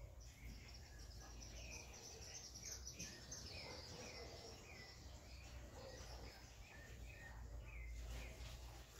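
Faint bird calls: a short falling note repeated about three times every two seconds, with fainter high chirping above and a low steady hum underneath.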